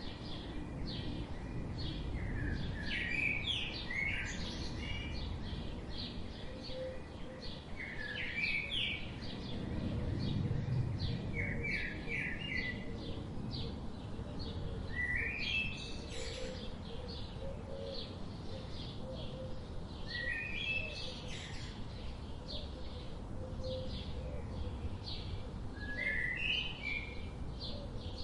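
Songbirds singing: one bird repeats a short song phrase every few seconds over a steady scatter of quick chirps from others, with a low steady rumble underneath.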